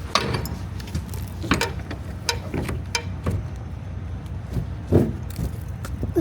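Semi truck's diesel engine idling with a steady low hum, under a series of sharp clicks and knocks from something being handled, the loudest about five seconds in.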